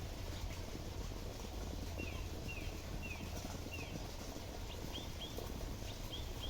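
A bird chirping, a series of short high notes about two a second, sliding down and later up in pitch, over a steady low rumble.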